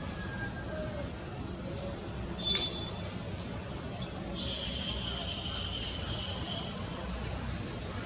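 A bird's high, rising whistled note repeated about every second and a half, with a short click near the middle. A steady, high buzzing trill lasts about two seconds, over a low, steady background rumble.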